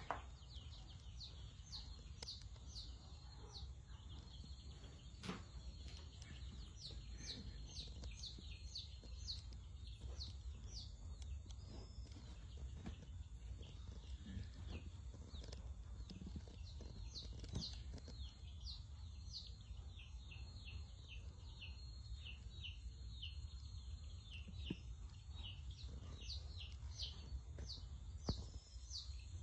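A brood of young chicks peeping: many short, falling cheeps overlapping without a break, over a low steady rumble.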